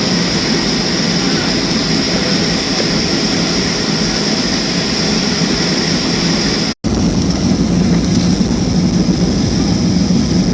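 Steady jet cabin roar inside a Boeing 737-300, engine and airflow noise with a steady high hiss. It breaks off for a split second about two-thirds through, and after that the low rumble is stronger.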